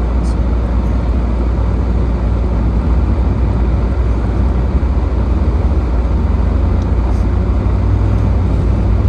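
A car driving: a steady low rumble with road and tyre noise.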